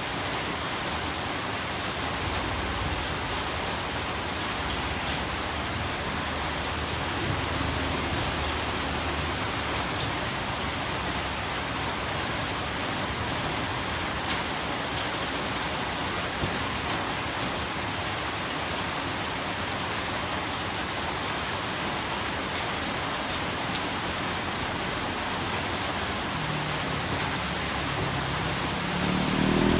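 Steady rain falling, an even hiss of drops on a surface. Near the end a low hum comes in and grows louder.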